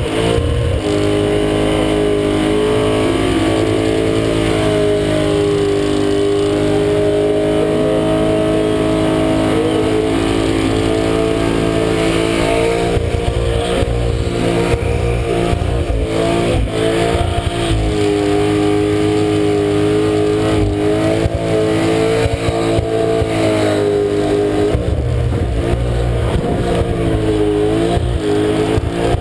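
Naturally aspirated 383 cubic inch Ford Cleveland V8 held at high revs through a burnout, the rear tyres spinning and smoking. The revs stay mostly steady, with a few brief dips and recoveries in the second half.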